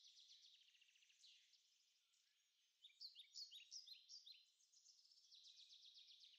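Faint birdsong: several small songbirds singing overlapping high trills and chirps, with a brief lull about two seconds in.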